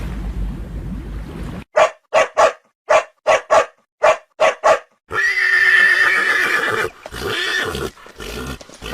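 Zebra barking call: a rapid run of about nine short, sharp yelps, followed by a longer, drawn-out call.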